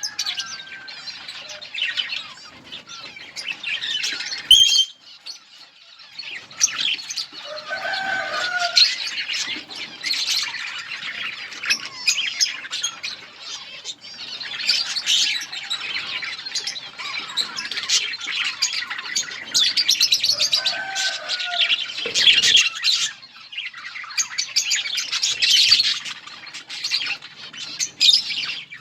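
A colony of budgerigars chirping and chattering continuously, many birds calling over one another, with a few lower, longer calls standing out now and then.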